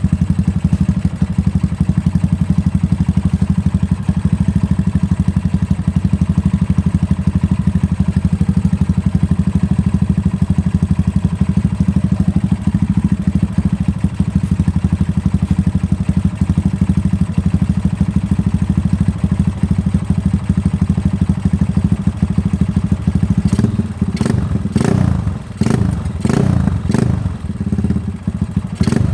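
Yamaha Scorpio 225's single-cylinder four-stroke engine idling steadily through an aftermarket Akrapovic exhaust, then blipped several times in quick succession near the end.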